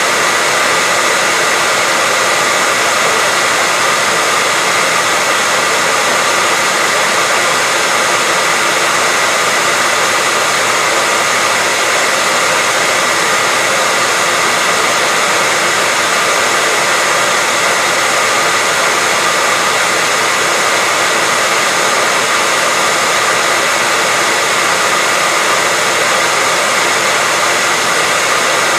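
Hair dryer running steadily: an even, loud rushing hiss of the fan and airflow with a faint steady whine in it, unchanging throughout.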